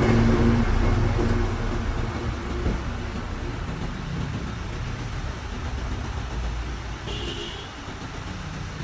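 An engine running with a steady low rumble. Its pitched hum fades in the first couple of seconds and the overall level eases down. A brief high tone comes about seven seconds in.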